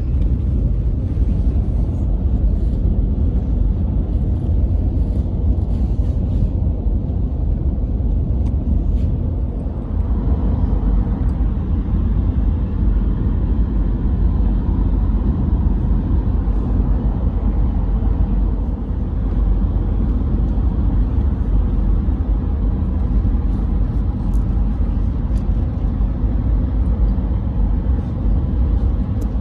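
A loud, steady low rumble with a noisy hiss above it, which grows a little fuller about ten seconds in.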